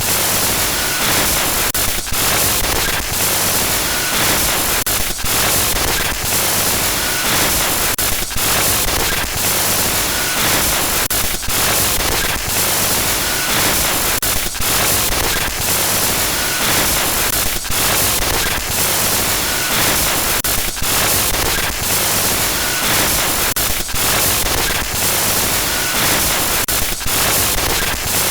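Glitch-noise horror sound effect: loud, harsh static hiss across all pitches, cut by brief stuttering dropouts every second or two, with a faint short beep recurring now and then.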